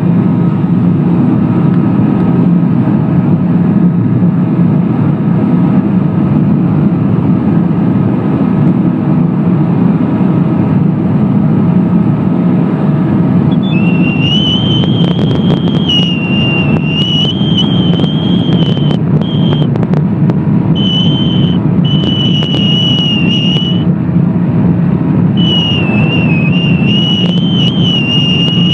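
Kawasaki STX-1100 jet ski's two-stroke three-cylinder engine running hard at full throttle, a loud steady drone. From about halfway through, a high wavering whine comes and goes over it.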